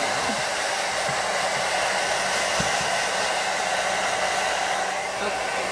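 Handheld blow dryer running steadily on a dog's wet coat: a constant rush of air with a steady hum.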